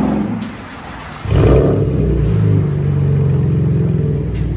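Chevy Camaro 3.6L V6 with a straight-piped true dual exhaust (H-pipe, resonators and mufflers deleted) settling back toward idle, then revved sharply about a second in and held at a steady high rev. The exhaust is loud.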